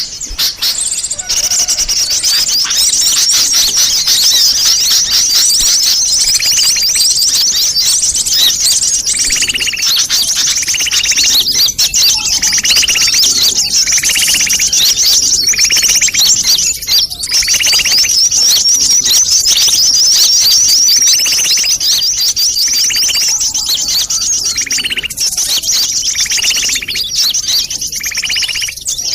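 Sunbirds chattering: a dense, high-pitched twittering of many rapid chirps, joined from about six seconds in by a shorter, lower note repeating every second or so. This is the noisy 'ribut' call used as a lure for small birds.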